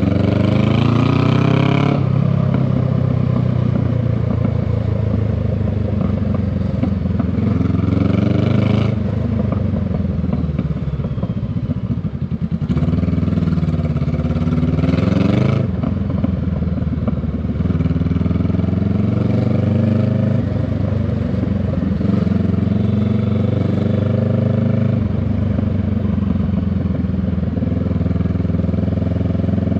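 Honda Rebel 500 parallel-twin motorcycle exhaust heard from the rider's seat, pulling away with rising revs three times: at the start, about eight seconds in, and around fourteen seconds in. In between and through the last part it runs steadily at low revs.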